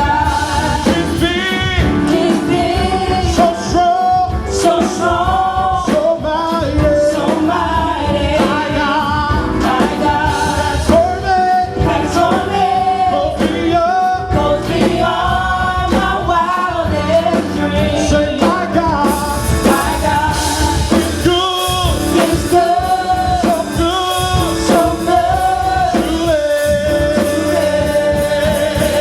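Contemporary worship song with lead singing over a full rock band of drums and guitar; the cymbals brighten about two-thirds of the way through.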